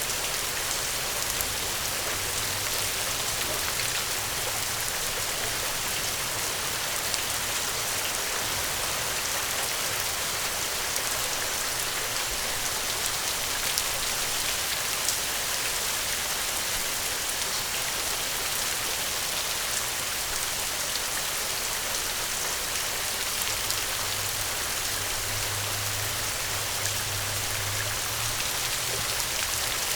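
Steady rain: an even hiss with scattered small drop ticks throughout.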